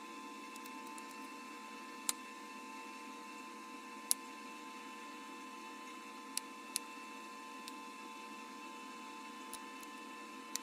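Sharp, irregular clicks, one every second or so, of flakes snapping off bottle glass under pressure flaking, over a steady hum.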